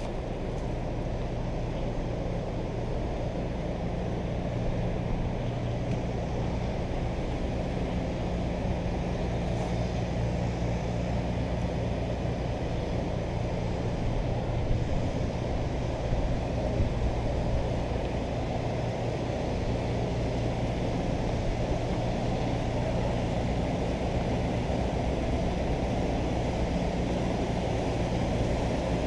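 A motor running steadily: a low, even hum under outdoor noise.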